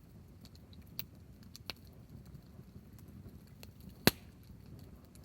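Wood fire crackling, scattered sharp pops over a low rumble of burning, with one loud pop about four seconds in.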